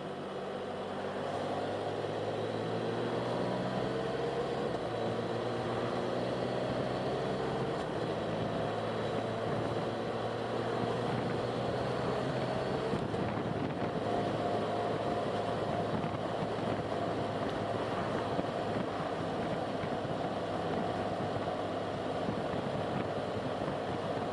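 Car engine and road noise while driving, the engine note slowly rising over the first several seconds and then holding steady.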